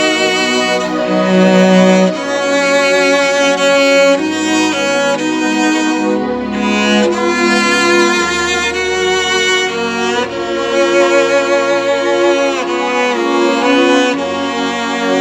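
Classical music on bowed strings, violin and cello, playing a slow melody with vibrato.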